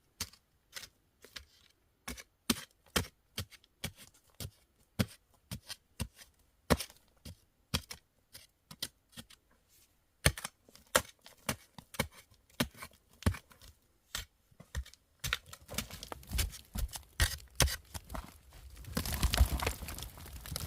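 A series of sharp, irregular knocks or taps, two or three a second, giving way about three-quarters of the way through to a denser scraping, rustling noise that grows louder near the end.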